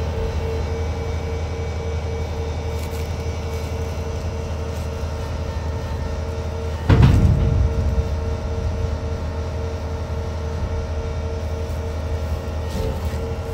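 Excavator diesel engine running steadily with a constant whine above it, and one heavy bang about seven seconds in as the machine bumps against the door.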